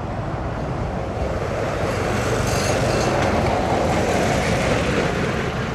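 Heavy machinery running with a steady, dense rumble and noise, without a clear rhythm.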